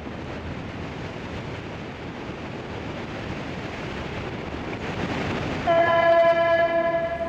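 Steady rush of wind and water from a boat under way. About five and a half seconds in, a loud, steady horn-like tone with overtones starts and holds.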